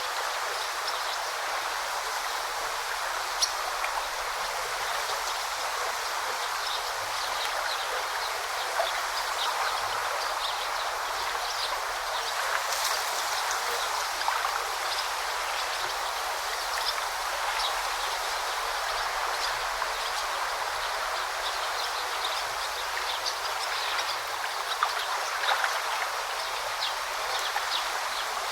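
Forest stream babbling over rocks in a steady rush of water, with short, high bird chirps scattered throughout.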